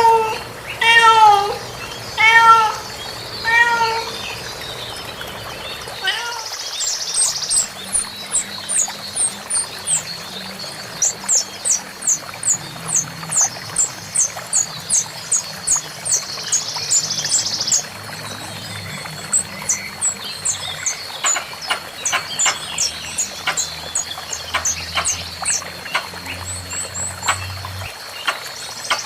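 Animal calls. For the first few seconds there is a run of short pitched calls, each falling in pitch, about one every 0.7 s. After that come many quick, very high chirps that carry on to the end.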